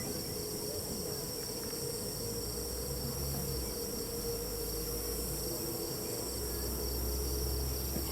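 Crickets or other night insects chirring steadily in a high, pulsing drone. A low rumble swells up twice underneath.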